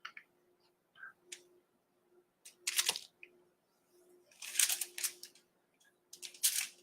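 Handling noises from paint supplies being worked on a table: several short clicks and scuffs, spaced irregularly, with the longest clusters about three and five seconds in.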